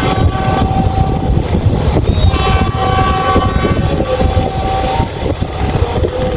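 Passenger train rumbling past as its last carriage goes by and the train draws away. A train horn sounds twice: a short blast just after the start, then a longer one of about two and a half seconds beginning about two seconds in.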